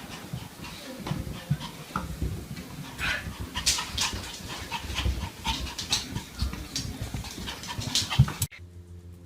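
A dog panting, with scattered sharp clicks and knocks. It cuts off abruptly near the end, leaving a faint steady hum.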